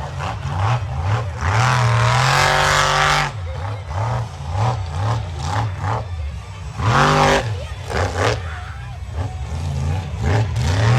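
Monster truck engine revving hard. It climbs to high revs and holds there for a couple of seconds, then runs through quick repeated throttle blips, then gives another sharp rev near the middle.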